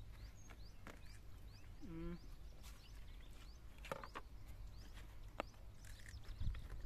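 Birds chirping in many short, high calls, over a steady low rumble of wind, with a few sharp clicks and a low thump near the end.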